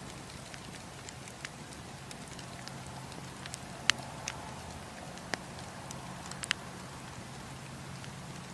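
Wood campfire crackling: irregular sharp pops and snaps over a steady low rumble, the loudest pop about four seconds in.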